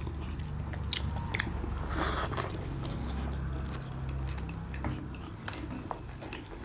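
Close-miked chewing and biting of steamed momos, with wet mouth sounds and scattered light clicks of chopsticks against the plates and sauce bowls, over a low steady hum.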